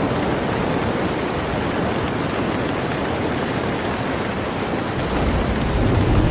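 Heavy rain falling steadily on a boat, an even hiss. About five seconds in, a low rumble builds beneath it and the sound grows louder.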